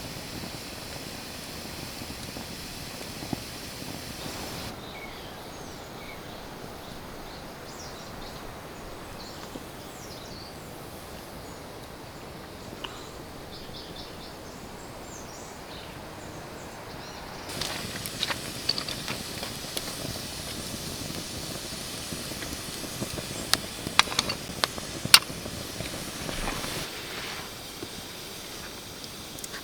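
Campfire crackling over a steady hiss, with a busier run of sharp pops and snaps in the latter part.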